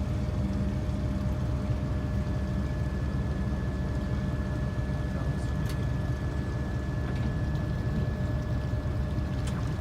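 The Vestmannaey's engines running steadily: an even low rumble with two faint steady tones above it.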